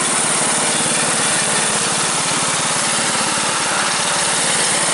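Suburban 10 garden tractor engine running steadily with an even, fast firing beat, left running to warm up shortly after a hard cold start.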